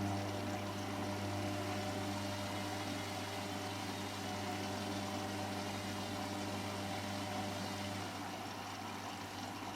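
Hotpoint Extra WMXTF742K washing machine running mid-cycle: a steady low mechanical hum with a few higher steady tones that fade out about eight seconds in.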